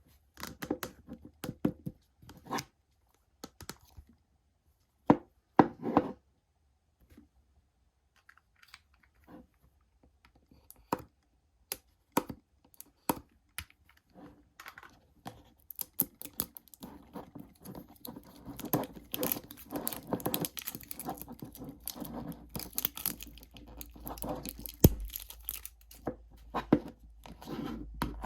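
Toy packaging being opened by hand: scattered clicks and taps, then from about halfway a run of tearing and crinkling of the wrapping.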